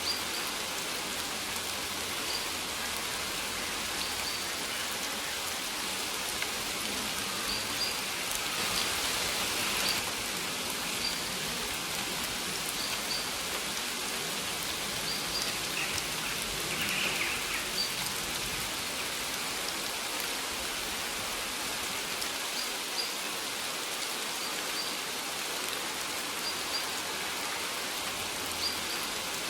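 Steady rain falling, an even hiss of drops, with short faint bird chirps repeating high above it every second or two.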